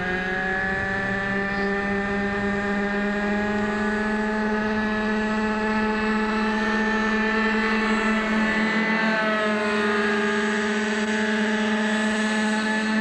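Glow-engine radio-controlled model helicopter (a scale UH-1 Iroquois) in flight, its small glow engine running at high revs with a steady whine. The pitch rises slightly at first and wavers briefly about nine seconds in.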